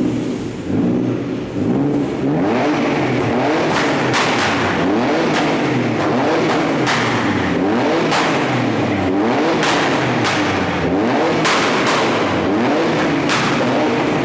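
A car engine revved hard over and over, the pitch climbing and dropping with each blip, with sharp cracks scattered among the revs from about four seconds in.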